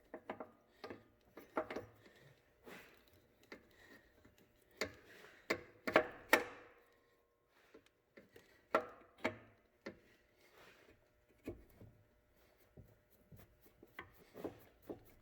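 Irregular knocks, clicks and scrapes of a part being worked and pushed onto its engine mounting bracket by hand, with the loudest knocks about five to six seconds in and a short quiet spell just after.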